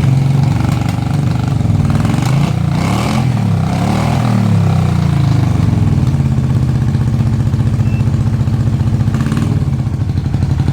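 1995 Honda Magna 250 V-twin engine running with its rear cylinder misfiring, firing on the front cylinder only. Its pitch rises and falls a few seconds in as the revs change.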